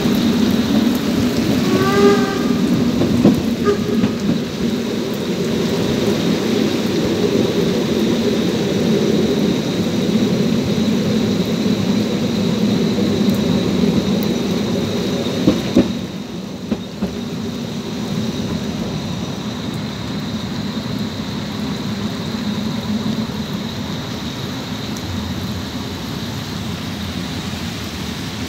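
Narrow-gauge train running on its track in heavy rain, heard from an open car: a steady rumble of wheels and rain. A brief squeal about two seconds in, and the rumble drops back a little just past the middle.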